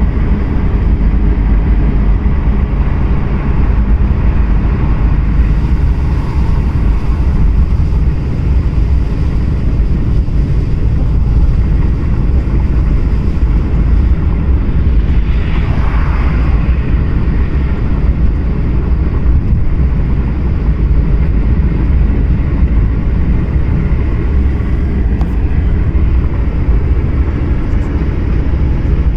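Car driving on the highway: a loud, steady low rumble of road and engine noise, with a brief louder swish about sixteen seconds in, like a vehicle passing.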